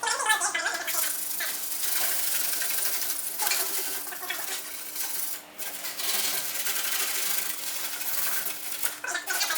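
Sanding of dried filler primer on a car body panel: a continuous rubbing scrape that varies in strength, with a faint steady hum underneath.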